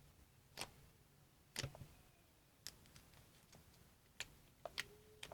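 Slime being squeezed and handled, giving sharp clicking pops at irregular intervals, about one a second and coming closer together near the end.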